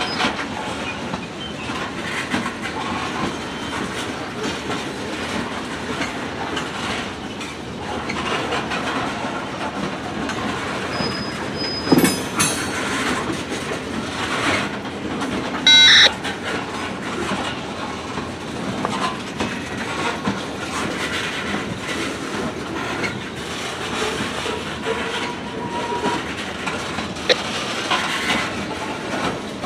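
Freight train cars rolling past, their steel wheels clicking steadily over rail joints. There is a sharp bang about twelve seconds in and a brief high squeal near sixteen seconds.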